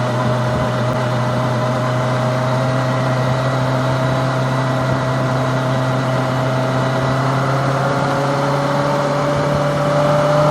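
Kawasaki ZX-25R's 250cc four-cylinder engine running steadily, its pitch sagging slightly and then rising a little near the end.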